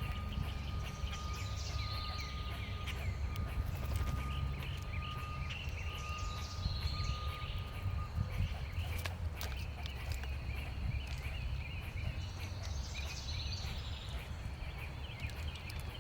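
Several wild songbirds calling and chirping over a steady low rumble, with a recurring short call phrase about every five to six seconds and a few sharp clicks about nine seconds in.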